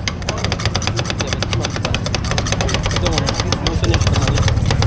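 An engine running steadily with a rapid clatter, with voices in the background.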